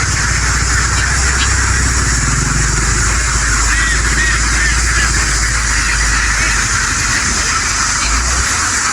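A very large flock of domestic ducks quacking all at once, a loud, dense, continuous din with a few single calls standing out midway. A low steady hum runs underneath and drops away near the end.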